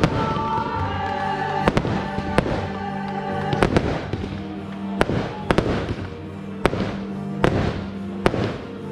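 Fireworks shells bursting overhead in about ten sharp, irregularly spaced bangs, over music with long held notes.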